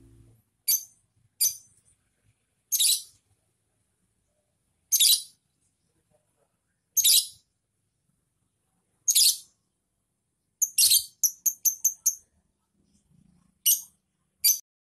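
Lovebird giving short, shrill chirps spaced a couple of seconds apart, with a quick run of about seven chirps near the end.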